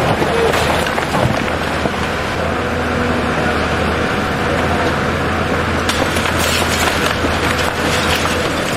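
An engine running steadily with a constant low hum, with a few sharp knocks or clatters about six to eight seconds in.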